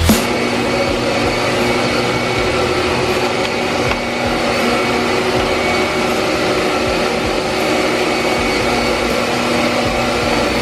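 Steady machine drone: several fixed hum tones over an even hiss, unchanging throughout.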